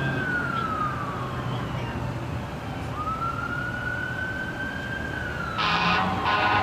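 Emergency vehicle siren on a slow wail, rising and falling twice, over a low engine hum; near the end a vehicle horn blasts twice, the second blast running on.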